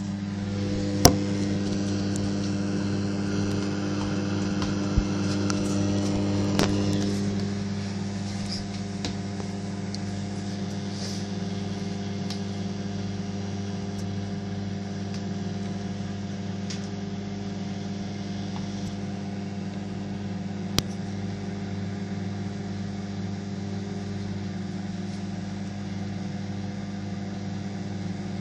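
Microwave oven running with a steady low hum, broken by a few sharp clicks.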